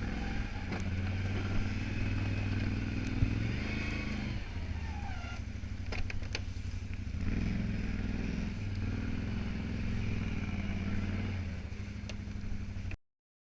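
Can-Am 570 XT ATV's V-twin engine running, its pitch rising and easing off twice as it works, with a couple of sharp clanks. The sound cuts off suddenly near the end.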